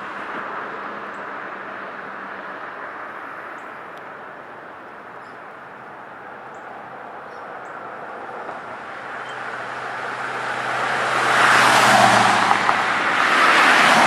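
Road traffic noise, with vehicles passing close by near the end as two loud swells of tyre and engine noise.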